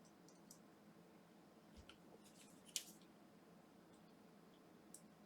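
Near silence with a few faint, short clicks from small parts being handled on the bench, the clearest about halfway through.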